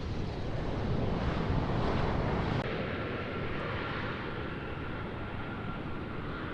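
Airliner jet engines, a loud rushing noise that swells to a peak about two seconds in, then changes abruptly to a quieter, steadier engine sound with a thin high whine.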